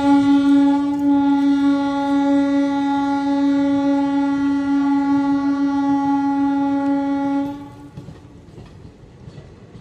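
Indian Railways WAG-9HC electric locomotive horn sounding one long, steady, single-pitch blast that stops about three quarters of the way through, leaving the quieter rumble of the train.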